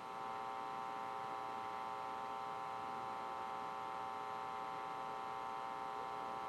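Steady electronic hum of many closely spaced tones in a rocket-launch webcast's audio feed, with faint hiss beneath, between the commentator's callouts.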